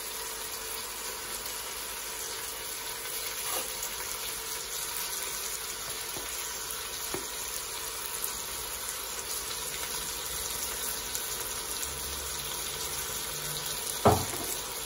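Lamb pieces with onions and spices frying in oil in a stainless steel pot, a steady sizzle. A single sharp knock near the end.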